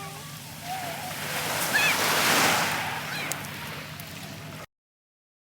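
Sea wave surging in and breaking on the shore, swelling to its loudest about two seconds in and then ebbing away. The sound cuts off abruptly near the end.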